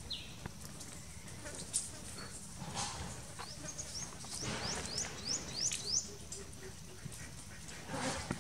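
A bird calling: a run of about eight quick, high, rising chirps over a couple of seconds in the middle, each a little louder than the last, with a few brief rustling bursts around it.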